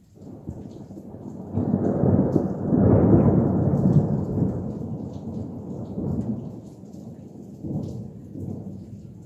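A loud, close thunderclap rumbling in suddenly, building to its loudest a few seconds in, then rolling away with a couple of smaller swells near the end.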